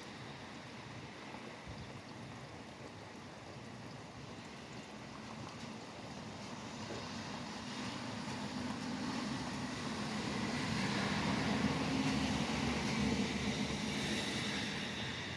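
Steady rain with the hiss of highway traffic on wet road; a vehicle's tyre noise swells up about halfway through, peaks, and fades away near the end.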